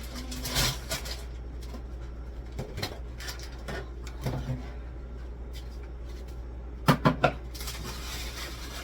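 Household items and containers being handled and set down while a refrigerator is cleaned out: scattered knocks, clatter and rustling, with three sharp knocks in quick succession about seven seconds in.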